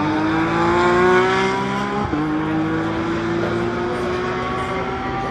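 GT race car engine accelerating hard. Its pitch rises, drops sharply on an upshift about two seconds in, then climbs again in the next gear.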